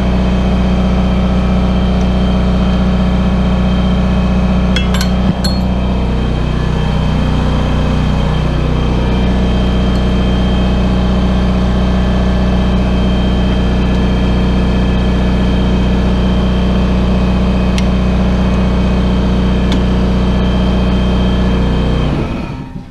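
Air compressor running with a steady, loud motor hum, then shutting off near the end once it reaches pressure. A brief clink about five seconds in.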